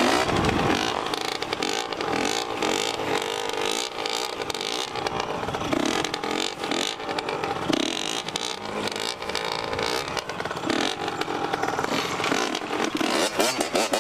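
Dirt bike engine revving up and down repeatedly under throttle as the bike is ridden.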